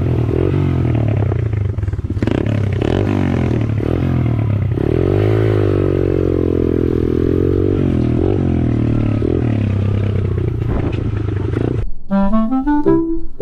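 Dirt bike engines revved hard, the pitch repeatedly rising and falling over a steady lower drone. About 12 s in the engines cut off abruptly and a short tune of distinct notes begins.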